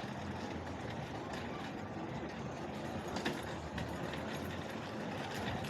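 Steady riding noise from a fat-tyre e-bike: wind rushing over the microphone and tyres rolling, with a low hum and a few light clicks.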